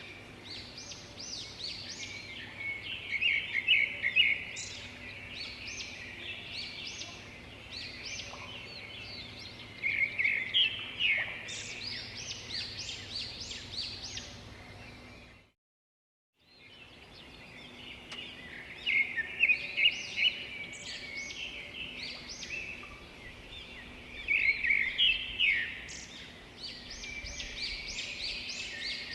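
Birds chirping and calling, many quick short calls overlapping, with louder flurries now and then. The sound cuts out completely for about a second midway.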